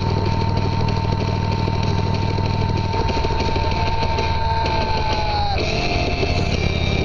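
Motorcycle engine running steadily, its note changing about three seconds in, with a steady high tone over it that drops in pitch near the end.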